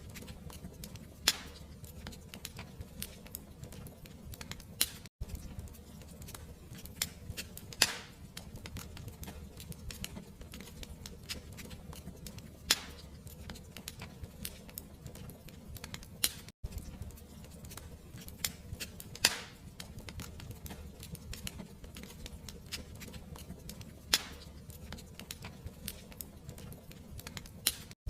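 Fireplace fire crackling steadily with a dense run of small snaps over a low, even rumble. A louder pop comes every few seconds. The sound cuts out for an instant twice.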